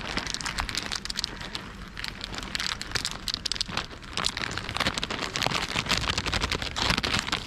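A dense, irregular patter of small clicks and crackles, like many light impacts or rustling.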